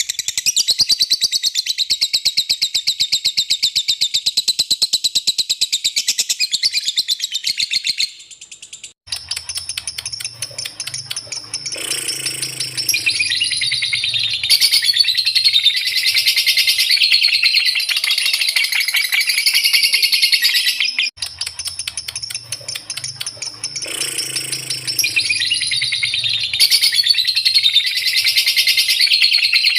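Lovebird singing its long, rapid chattering trill ('ngekek'), a fast unbroken run of high chirps that stops briefly about eight seconds in, then resumes, with another short break around twenty-one seconds.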